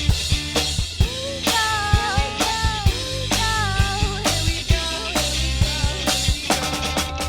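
A rock band playing live: drum kit with bass drum and snare hits over bass and guitars, with a run of quick drum hits near the end.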